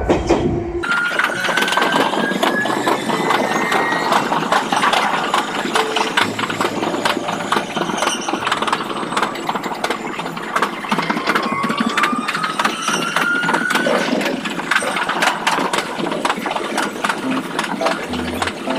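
An Iyotetsu electric train's running noise, sped up to double speed. The traction motors whine, rising in pitch twice as the train accelerates. Under them runs a fast, dense clatter of the wheels on the rails.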